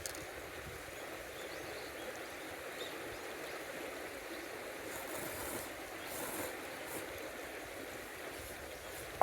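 River water running steadily, with a few faint clicks about halfway through.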